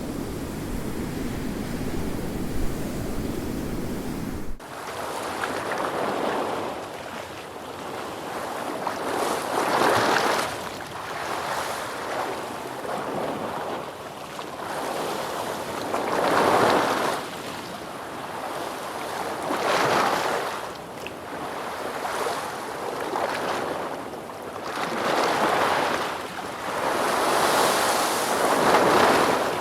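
Ocean waves breaking and washing in, each surge swelling and falling away every few seconds. The opening seconds hold a steady low rumble that cuts off suddenly about four and a half seconds in.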